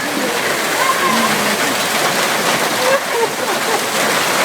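Heavy hail pelting down in a steady, dense hiss of hailstones striking the ground, with faint shouts from men in the background.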